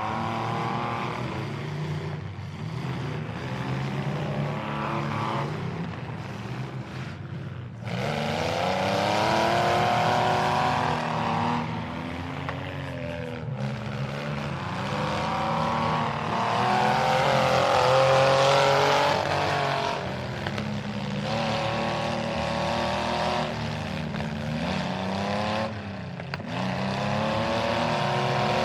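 Demolition derby vehicle engines revving up and down, rising and falling in pitch over and over. The sound gets suddenly louder about eight seconds in.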